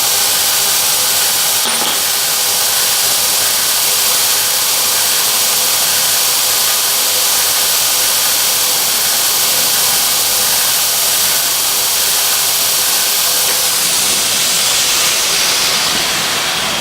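Homemade belt grinder running steadily with a loud, hissing belt noise over a faint motor hum; the sound's character shifts near the end.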